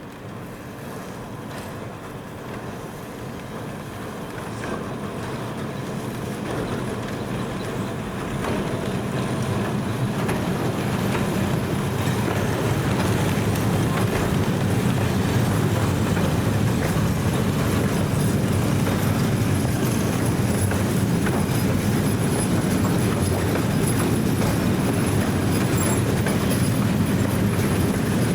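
A train approaching on the rails, growing steadily louder over about twelve seconds, then running past at a steady loud level with the rumble of its wheels on the track.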